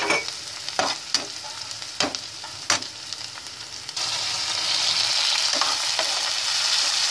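Chopped onions frying in hot oil in a pan, a spatula stirring and scraping with a few sharp knocks against the pan. About four seconds in the sizzle jumps louder and stays loud as chopped tomatoes go into the hot oil.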